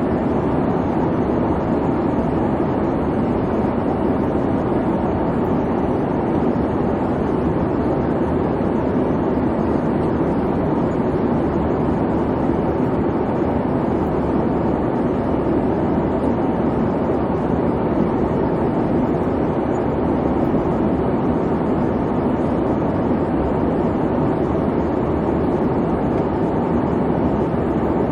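Airliner cabin noise in flight: a steady, even rumble of engine and airflow noise, strongest in the low-mid range, with no changes.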